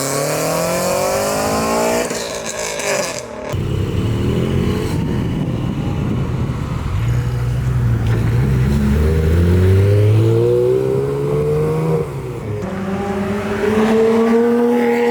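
Performance cars accelerating hard past one after another, their engine notes climbing in pitch as they rev. A deep, loud engine comes in suddenly a few seconds in and climbs through the middle, and another engine rises near the end.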